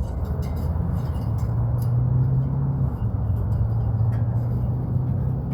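Air-conditioning condenser unit running with a steady low hum, which grows stronger about a second in.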